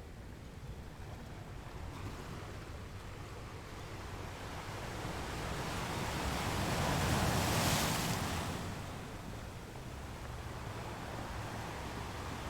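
Ocean waves washing steadily. One wave builds about halfway through, breaks at its loudest and then subsides back into the steady surf.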